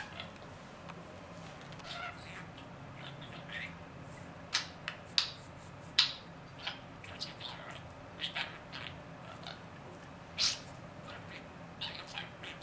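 Pet parrot giving a string of short, sharp chirps and squawks, irregularly spaced, the loudest about six seconds in and again near ten seconds, over a steady low hum.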